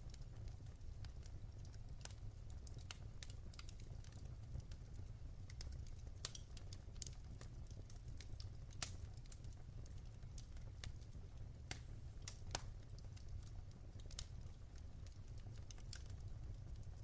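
Wood fire burning in a fireplace: a low steady rumble of flames with irregular crackles and pops, a few sharper pops about six, nine and twelve seconds in.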